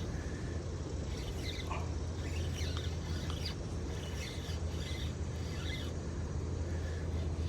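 Small birds chirping in short scattered calls over a steady low rumble of moving water and outdoor background.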